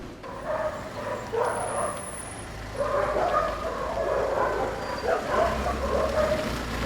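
A dog barking and yipping repeatedly in short calls, over a steady low traffic rumble.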